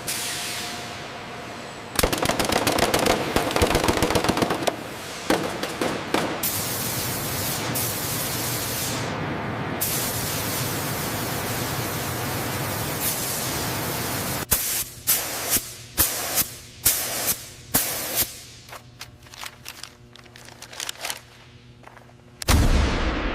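Rapid mechanical rattling, then a steady noisy wash, then a run of separate sharp bangs about twice a second that thins out into scattered fainter clicks.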